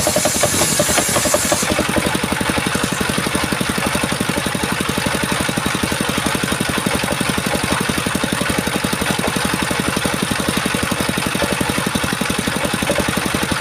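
Chainsaw engine idling steadily with a fast, even pulse. A high hiss stops about two seconds in and the idle carries on.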